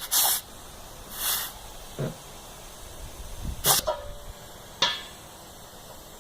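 Compressed air hissing in short bursts from an air chuck pressed on and off a valve, four spurts in all, one ending in a brief squeal; the chuck is not filling reliably.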